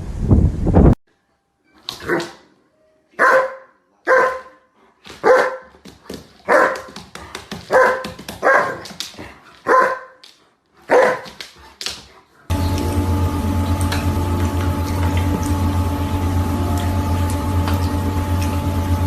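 A dog barking about ten times, one short bark every second or so. About twelve seconds in, the sound changes to a steady low hum with a faint steady whine.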